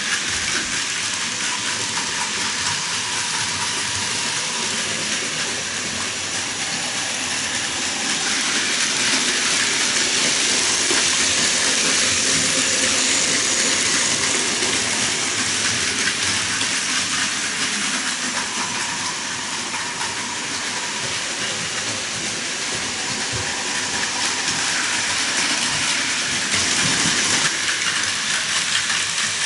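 Plarail Advance toy trains and N-gauge model trains running around a layout. A steady, dense running noise that grows louder for several seconds around the middle as the trains pass close.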